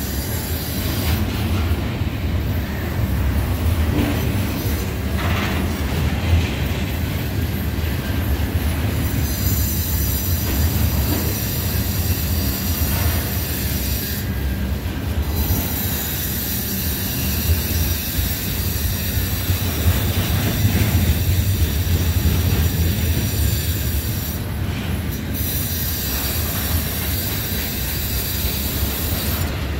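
Double-stack intermodal container well cars rolling past at close range: a steady rumble of steel wheels on rail, with a thin high-pitched hiss above it.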